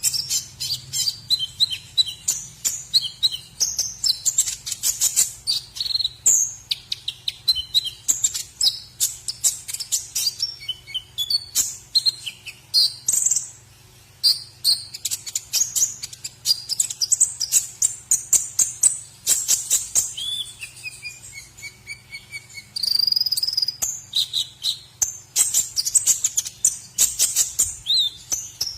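White-rumped shama (murai batu) singing a fast, varied song of high chirps, rapid trills and whistles, with a falling whistle about twenty seconds in and a brief pause about halfway. It is a master song packed with fillers of the kind used to teach other songbirds.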